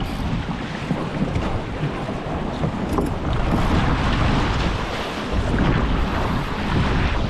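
Wind buffeting the microphone over the rush of water along the hull of a 29er skiff sailing fast in a strong breeze, a steady noisy roar with no distinct events.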